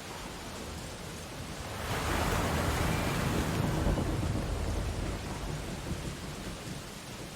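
Ocean surf: a steady wash of waves, with one wave breaking about two seconds in, swelling loud and then slowly washing out over the next few seconds.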